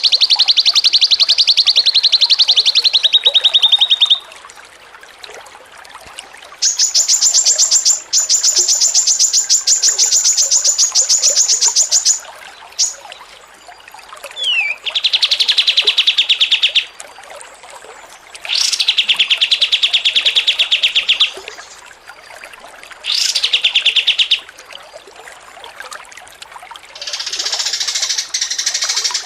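A small songbird singing rapid, buzzy trills of quickly repeated notes, each trill lasting about two to five seconds, with short pauses between. One trill, about a quarter of the way in, sits noticeably higher in pitch than the others. A looser, scratchier chatter comes in near the end.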